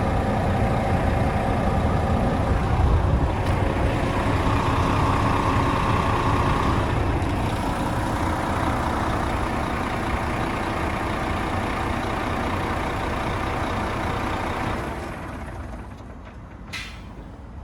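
Renault T460 tractor unit's 460 bhp Euro 6 diesel engine running steadily, the sound dropping away about fifteen seconds in. There is a short sharp sound near the end.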